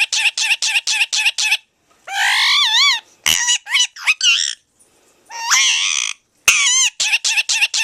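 Indian ringneck parakeet talking in a high-pitched voice: rapid strings of short repeated syllables at the start and end, like its phrase 'here kitty kitty kitty', broken by two warbling, wavering calls in the middle.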